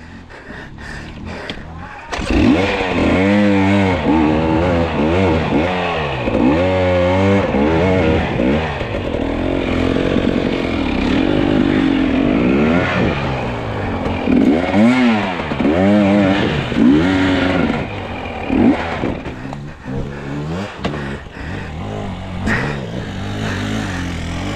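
Two-stroke enduro dirt bike engine revving hard in repeated rising-and-falling bursts under heavy load on a steep climb. It picks up about two seconds in, with some scraping and clatter from the bike on the trail.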